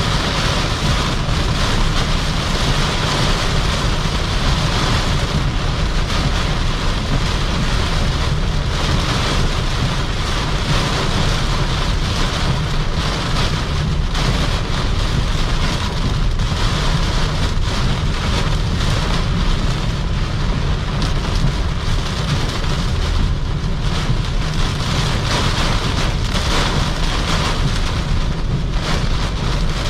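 Heavy rain hitting a Toyota Camry 3.5Q driven at speed on the highway, heard from inside the cabin over steady tyre and road noise with a strong low rumble.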